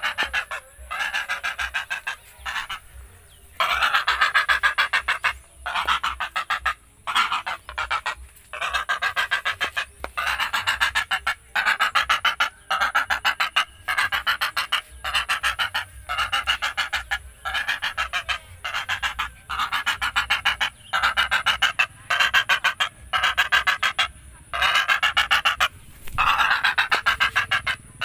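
A tame bangau (a stork-type wading bird) gives rasping, honk-like calls over and over, each about a second long, coming roughly once a second with short gaps between them.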